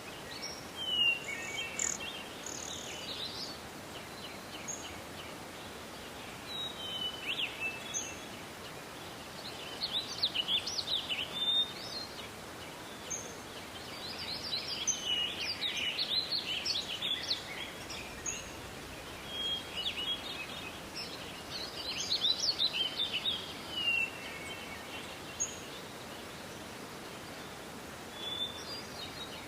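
Forest birds chirping and singing in bouts every few seconds, several calls overlapping, over a steady soft hiss of forest ambience.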